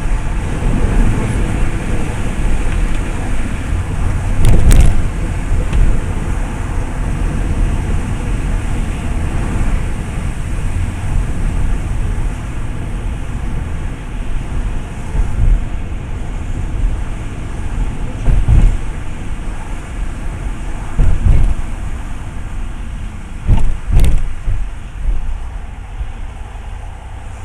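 Road and engine noise of a moving car heard from inside the cabin: a steady low rumble, broken by a few sharp thumps, the loudest about five seconds in and twice near the end.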